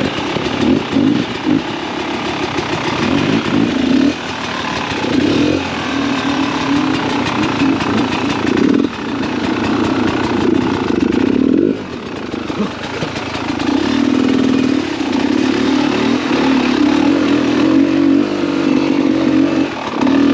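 Beta 300RR two-stroke dirt bike engine running under load while riding, the throttle opened and shut again and again so the revs rise and drop every few seconds.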